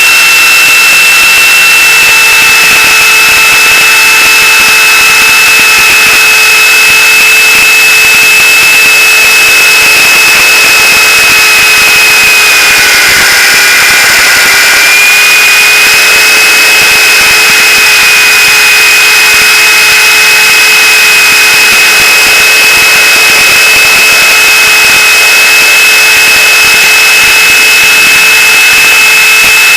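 Electric RC helicopter (Gaui Hurricane 425) running, with a steady high whine from its motor and rotors. The pitch dips briefly about halfway through, then returns.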